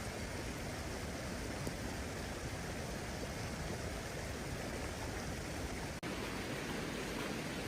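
Steady rain falling, an even hiss with no single drops standing out, broken by a brief dropout about six seconds in.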